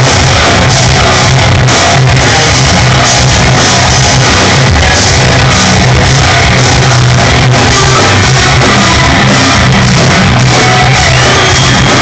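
Live instrumental progressive metal played loud by a band: extended-range electric guitars and drums, with no letup.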